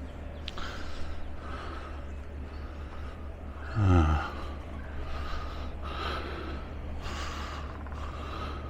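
A person's breathing close to the microphone, a hissy puff about once a second over a steady low rumble, with one short voiced sound about four seconds in.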